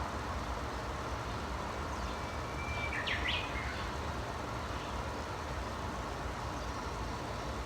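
A bird calls once about three seconds in: a brief whistle, then two or three quick sharp up-and-down sweeps. Under it runs a steady rumbling background hiss.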